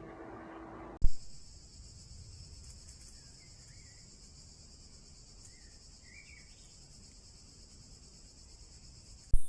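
Steady high-pitched chorus of crickets or other insects, recorded by a trail camera, with a couple of faint bird chirps. It opens and closes with a sharp click where one trail-camera clip cuts to the next.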